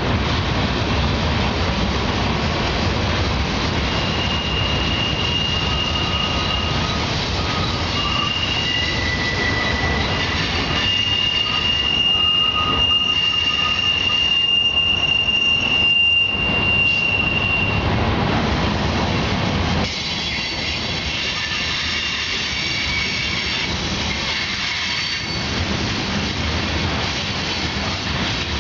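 Union Pacific mixed freight cars rolling past on a downgrade, a steady rumble of wheels on rail. From about four seconds in to about eighteen seconds, wheels squeal in several thin, steady high tones, then the squeal fades and the rolling carries on a little quieter.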